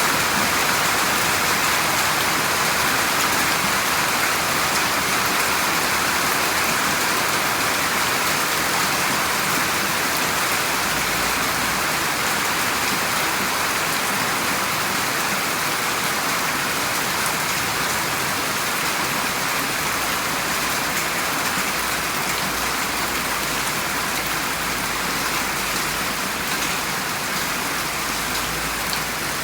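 Steady rain falling, an even hiss with no breaks, and a faint low rumble underneath at times in the second half.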